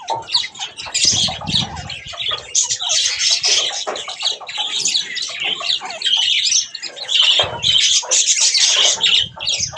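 A flock of budgerigars chattering and squawking continuously, with a few short bursts of wing fluttering.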